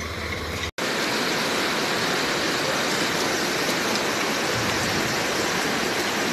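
A low engine hum cuts off under a second in. It is followed by the steady, even hiss of heavy rain pouring down during a storm.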